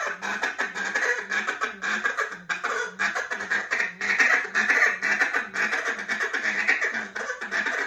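Duck call blown in a long, unbroken run of short quacks, about three a second.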